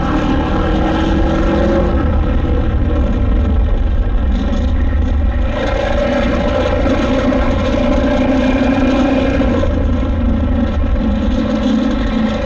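KTM 890 Adventure R's parallel-twin engine running steadily under way, with small shifts in pitch as the throttle changes.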